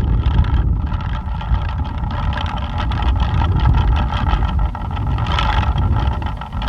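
Plastic pinwheel whirring as it spins in strong wind, over a low rumble of wind buffeting the microphone.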